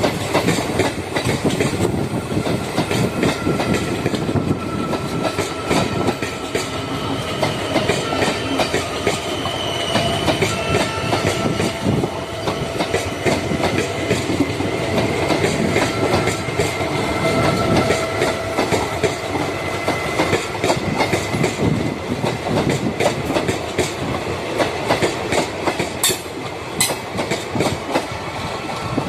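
MEMU electric multiple-unit train running, its wheels clattering over the rail joints in a continuous rattle, with a faint steady whine above it and two sharp clicks near the end.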